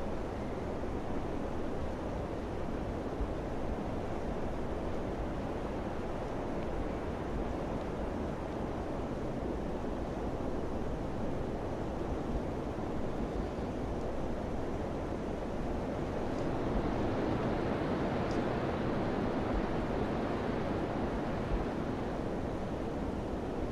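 Wind blowing as a steady, low rushing noise that swells a little about two-thirds of the way through.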